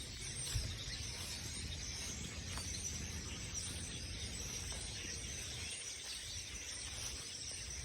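A large flock of birds chattering and calling together in the trees, heard as a steady high-pitched wash of many overlapping calls.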